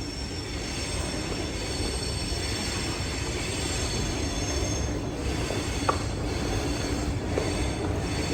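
Rail vehicle passing with its steel wheels squealing: a steady, high-pitched squeal that holds for the whole stretch, over a general rumble.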